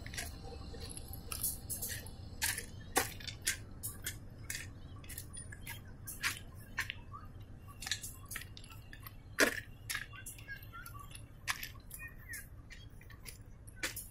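Loaded flat wagons carrying steel rails rolling slowly over long-disused railway track: irregular sharp cracks and creaks over a low rumble, one crack louder than the rest about nine seconds in. The track has not been used for about 20 years, and the uploader finds the sound frightening and fears a derailment.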